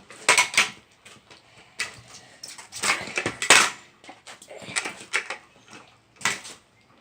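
Kick scooter clattering and scraping on pavement during trick attempts: a run of sharp knocks and scrapes, loudest a little past the middle, with a last one near the end.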